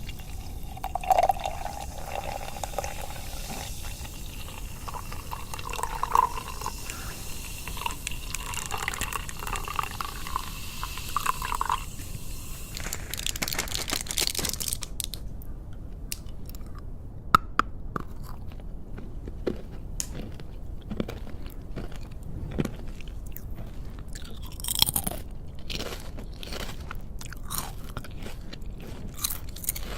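Close-miked ASMR trigger sounds: soft, wet, sticky sounds for roughly the first half, then a brief loud swish, then many sharp, crisp crunches and crackles.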